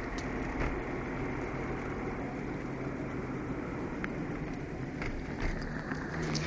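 Steady low hum heard inside a Ford Figo's cabin, over a constant hiss of engine and road noise, with a few faint clicks. This hum is the cabin humming noise the owner complains of.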